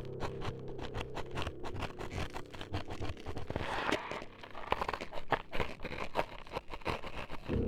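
Dense, irregular scraping, scratching and crunching right at the microphone, the ASMR imitation of an ear being cut up. A low droning hum underneath fades out about two seconds in.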